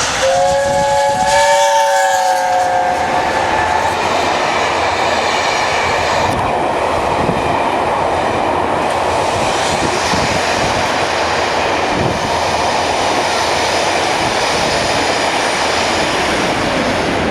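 Electric multiple unit train, likely a British Rail Class 321, sounds its horn as a chord of a few tones for about three seconds. Then it passes with a steady rush of running and wheel noise.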